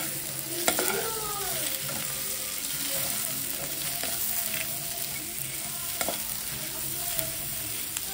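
Boiled egg pieces, onions and spices sizzling in oil in a nonstick pan as they are stirred with a metal slotted spoon, with a few sharp clicks of the spoon against the pan.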